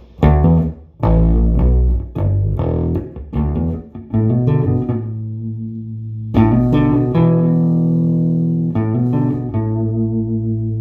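Electric bass guitar played through a 1973 Fender Quad Reverb silverface combo amp with four 12-inch Weber Legacy speakers. A few short, punchy low notes come first, then held notes higher up the neck that ring out for a second or two each.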